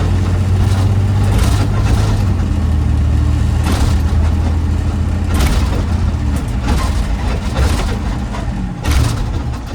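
Garbage truck's diesel engine running with a steady low drone that eases off about seven seconds in, with several short rushes of noise over it.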